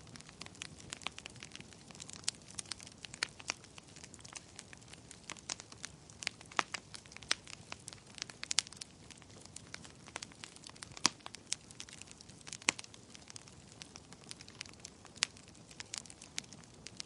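Fire crackling: irregular sharp pops and snaps, several a second, over a soft steady hiss, with a few louder snaps scattered through.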